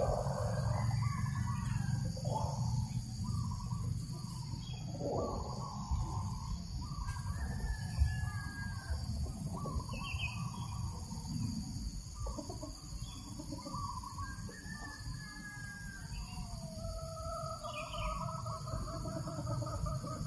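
Chickens clucking and other birds calling at irregular intervals, over a steady low rumble of breeze on the microphone.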